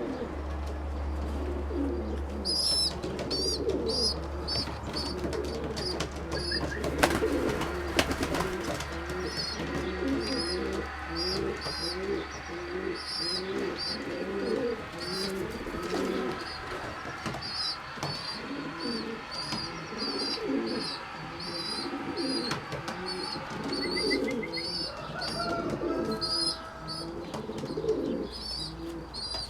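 A flock of young racing pigeons cooing over and over, many calls overlapping, with rows of short high chirps above the cooing. A low steady hum runs under the first half, and there are a couple of sharp clicks about seven seconds in.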